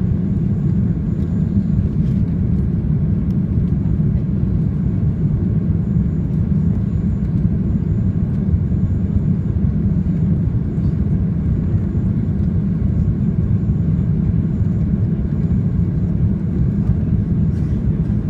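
Jet airliner in flight on its approach: a steady low rumble of engine and airflow noise, even in level throughout.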